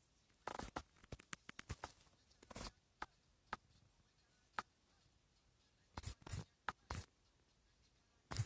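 A run of short, irregular scratchy clicks and rustles, bunched in the first two seconds and again about six seconds in, with the loudest one near the end.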